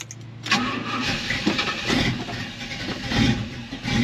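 The Trans Am's replacement 400 V8 engine starting about half a second in and running, its revs rising and falling a few times.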